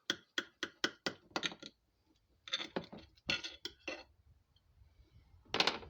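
Cutlery clinking and tapping against a dish while lasagna is cut: a quick run of sharp clinks, a second cluster about two and a half seconds in, and one more clink near the end.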